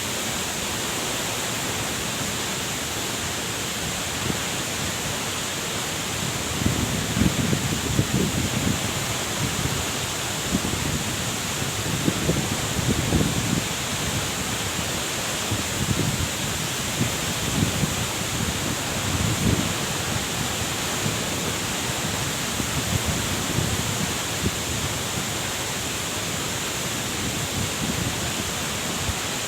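Waterfall rushing steadily, with irregular low rumbles coming and going through the middle stretch.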